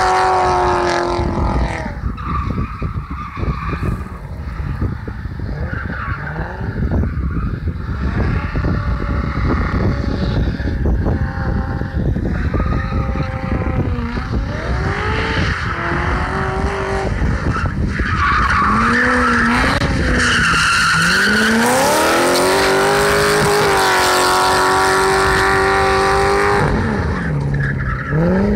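V8-swapped BMW E30 engine revving up and down, then holding high revs for several seconds in the second half before dropping off near the end, with tyres squealing and spinning as the car drifts.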